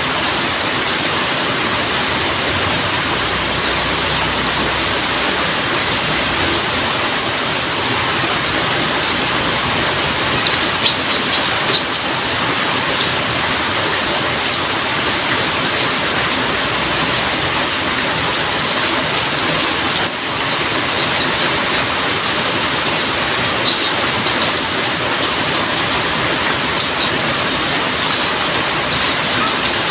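Steady heavy rain falling, a dense even hiss with occasional sharper drop ticks standing out.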